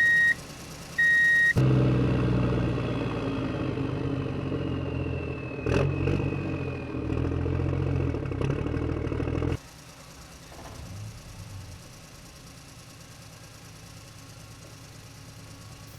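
A toy truck's electronic sound effects: a last reversing beep, then a recorded truck engine revving and running for about eight seconds, which cuts off suddenly. After that only a faint low hum remains.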